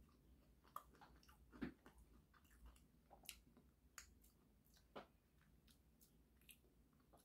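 Faint chewing close to the microphone: soft, irregular mouth clicks and smacks of someone eating with their mouth closed.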